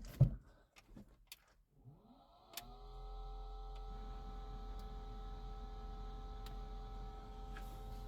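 A few light clicks, then about two and a half seconds in a motor in the Mini spins up, rising briefly in pitch, and settles into a steady hum during the first start-up after the engine swap.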